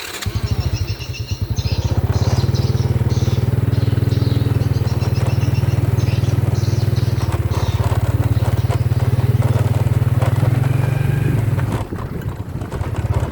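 Motorcycle engine pulling away and running steadily under throttle, easing off near the end.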